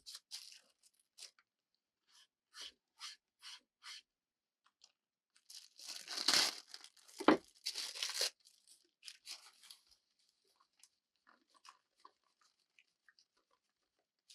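A run of short rasping tearing strokes, then a longer burst of crunching with one sharp crack in the middle, dying away into scattered small clicks.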